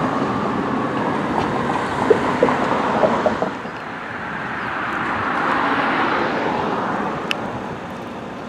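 Fire apparatus driving past: engine and road noise that drops off about three and a half seconds in, then swells again and fades away as a second vehicle goes by.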